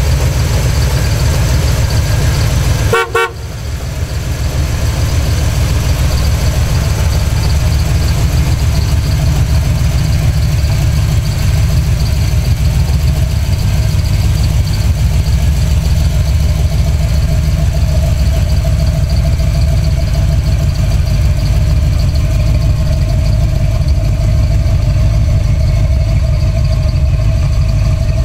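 1972 Chevelle's 350 small-block V8 idling steadily through long-tube headers and dual exhaust, with a brief toot about three seconds in.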